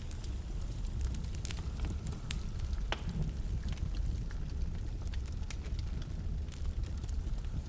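Wood fire burning in a fireplace: a steady low rumble of flames with irregular sharp crackles and pops from the burning logs, one louder pop about three seconds in.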